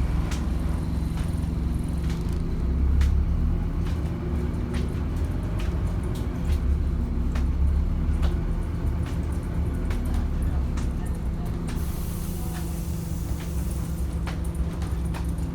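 Scania N230UD double-decker bus's diesel engine running with a steady low drone, swelling twice as it works harder. Scattered clicks and rattles come through, and a hiss of air about twelve seconds in is typical of the air brakes or air system.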